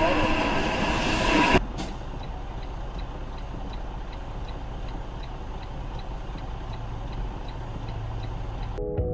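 Low steady road and engine hum inside a car's cabin with a regular light ticking, two to three a second, typical of a turn-signal indicator. A louder rushing noise with a steady hum in it stops abruptly about a second and a half in.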